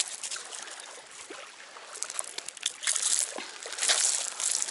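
Water trickling and sloshing, with irregular wet rustles and splashes that grow louder about halfway through.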